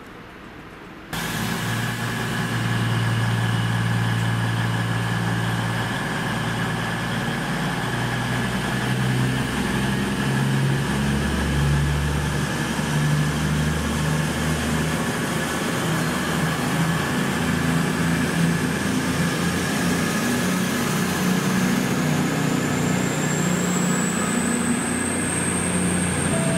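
A train running at a station platform, starting abruptly about a second in: a deep engine rumble that shifts in pitch in steps, with a steady whine above it and a high whine rising near the end.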